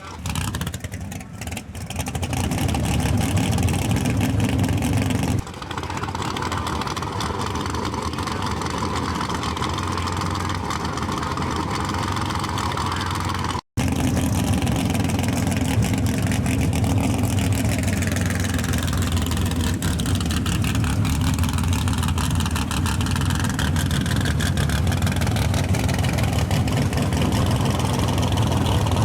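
Drag race car engines running loudly and steadily, with a brief abrupt dropout about 14 seconds in.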